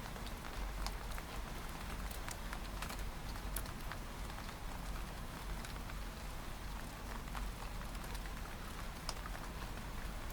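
Rain pattering and dripping against a window pane: irregular small taps and drips over a steady hiss of rainfall, with a low rumble underneath.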